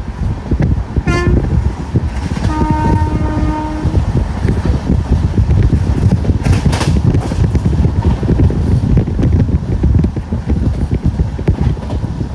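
A moving passenger train rumbling and clattering on the rails, while the locomotive's horn sounds: a short toot about a second in, then a longer blast of about two seconds.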